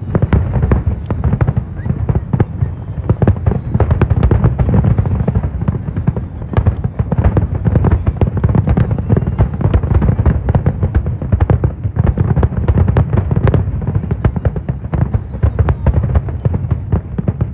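Aerial fireworks display going off continuously: a dense run of overlapping bangs and crackles over a deep rumble, with no break.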